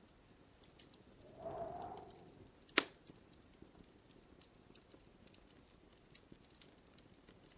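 Wood fire in a fireplace crackling with faint scattered ticks, a brief hiss about one and a half seconds in, and one loud, sharp pop a little before three seconds in.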